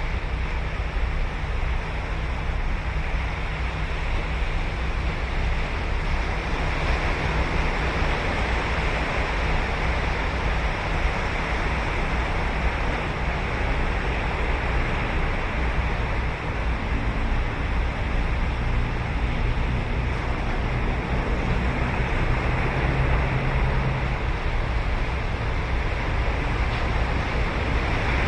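Ocean surf washing steadily onto a sandy beach on Sagami Bay. A faint low hum joins it for several seconds past the middle.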